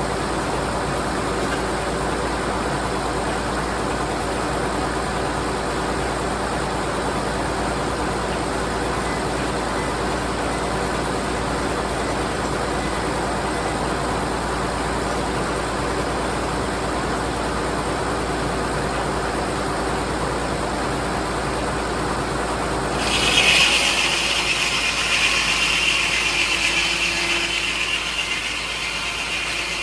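Frick No. 00 circular sawmill running steadily under power. About 23 seconds in, the saw blade bites into the log and a loud, higher cutting noise joins the running, going on to near the end.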